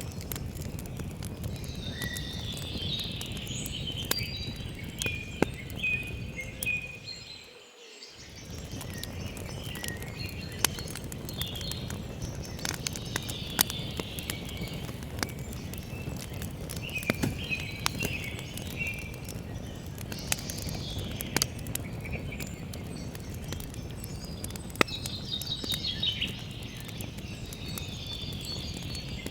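Campfire crackling, with frequent sharp pops over a steady low rush, while songbirds chirp and sing on and off. The sound briefly fades down and comes back about seven to eight seconds in.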